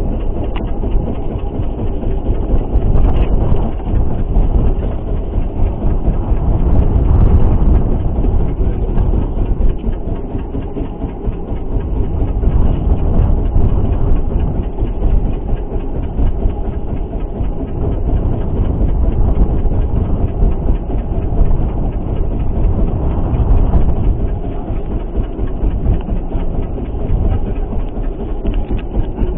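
Steady low rumble of a small fishing boat at sea in rough water, with engine, wind and waves mixed together, swelling and easing every few seconds.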